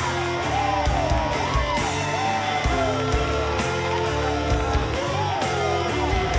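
Rock band playing: bass and drums keeping a steady beat under guitar, with gliding, bending notes above.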